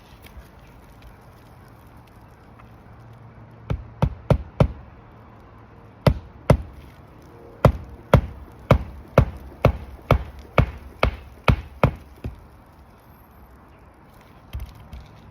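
Hammer driving roofing nails through an asphalt shingle into the roof deck: a quick run of four strikes, then about a dozen more at roughly two a second.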